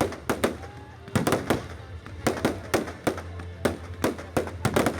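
A fireworks display: rapid, irregular bangs at about three a second, with music playing underneath.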